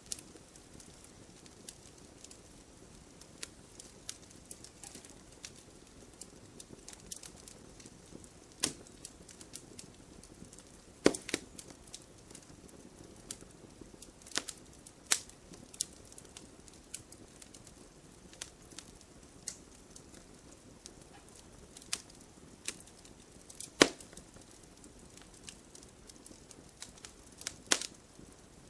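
Wood fire crackling: irregular sharp pops and snaps over a soft low hiss of burning, with a few louder pops about 11, 15, 24 and 28 seconds in.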